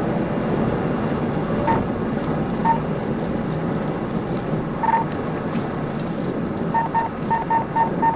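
Steady road and engine noise inside a moving patrol car, with short electronic beeps all at one pitch: a few scattered ones, then a quick run of them near the end.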